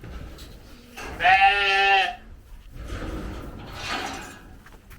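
Sheep bleating: one loud, wavering bleat about a second in, then a fainter, hoarser bleat near the end.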